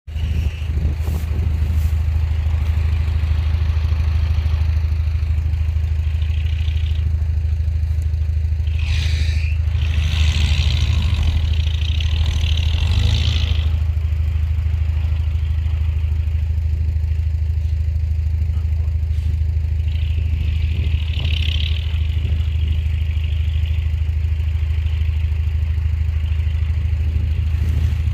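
Heavy diesel engine of earthmoving machinery running with a steady low drone, with louder noisy stretches about a third of the way in and again past two-thirds.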